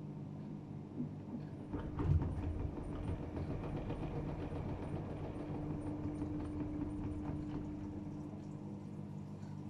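AEG Öko-Lavamat 76910 washing machine mid-wash: about two seconds in, its inverter-driven three-phase motor starts turning the drum and the wash tumbles with a rising motor whine, over a steady low hum.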